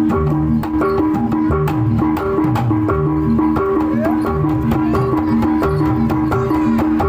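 Gamelan-style music for a traditional dance: a repeating melody of struck metal tones over hand-drum strokes, with sharp clicking percussion throughout.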